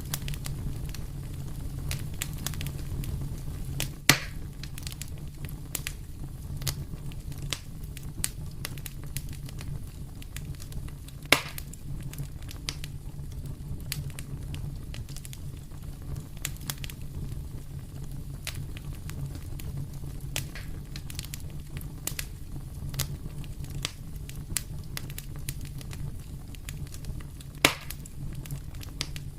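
Wood fire burning in a fireplace: a steady low rumble of the flames under constant small crackles, with three louder sharp pops spread through.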